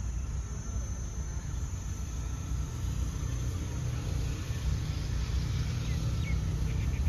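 Low, steady rumble of a diesel passenger train, with a couple of faint high chirps about six seconds in.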